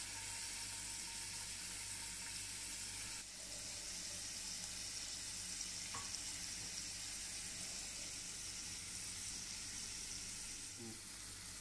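Paneer cubes shallow-frying on low flame in a little oil in a nonstick pan: a faint, steady sizzle of bubbling oil.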